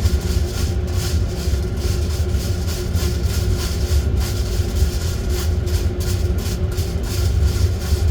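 Small coffee-roasting setup running while green coffee beans are roasted: a steady low motor or fan hum with a faint constant tone above it, and a quick, irregular rattle over the top.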